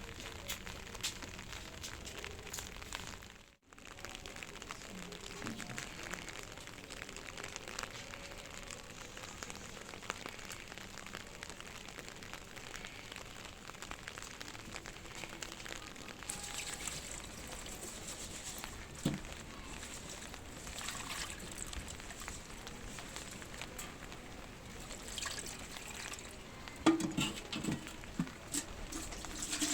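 Water trickling and pouring steadily, with a few knocks and clatters near the end.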